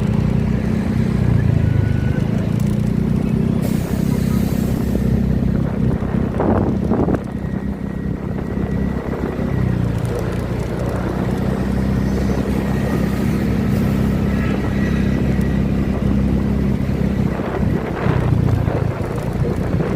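A motor vehicle's engine running at a steady speed, with wind noise and a few brief knocks or rattles.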